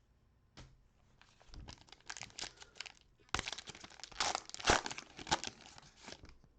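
Trading card pack wrapper being torn open and crinkled in the hands, a run of irregular crackling and tearing that is loudest midway through.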